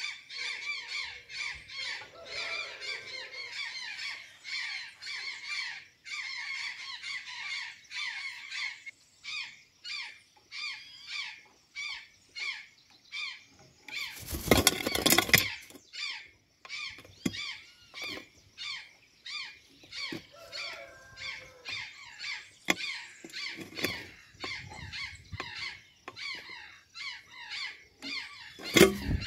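Azure jay giving harsh, squealing calls repeated rapidly, about two to three a second. About halfway through comes a loud, noisy burst lasting a second or so, and there is a sharp knock near the end.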